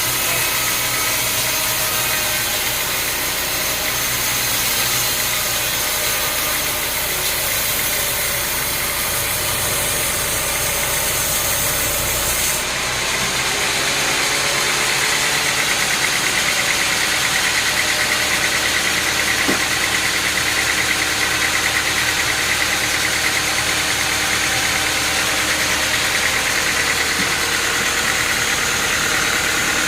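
Sawmill machinery running steadily, with engine-like mechanical noise. The sound changes abruptly about twelve seconds in and stays steady afterwards.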